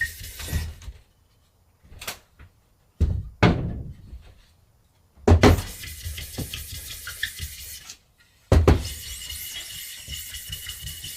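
Handling sounds of silkscreen plate-making work: a series of sharp knocks and clunks, the loudest about five seconds in and another near nine seconds, with a steady hiss between them and a few short spells of near silence.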